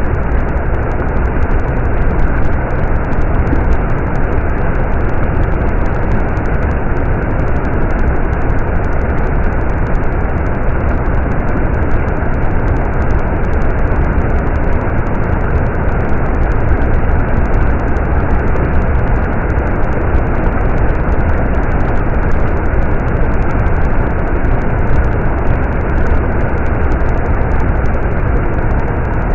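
Stream water running, an even, unbroken rush with a strong low rumble.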